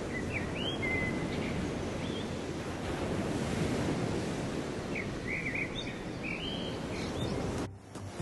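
Sea waves washing onto a shore, a steady rushing, with birds chirping in short bursts near the start and again later on. The sound cuts off suddenly near the end.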